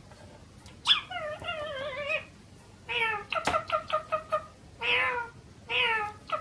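A talking parrot making meow-like calls: a long wavering call about a second in, then several falling calls, each followed by a quick run of short repeated notes, about six a second.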